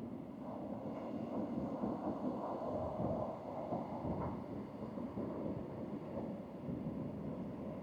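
Honda Rebel 1100 parallel-twin motorcycle under way, with wind rushing over the microphone and the engine running underneath.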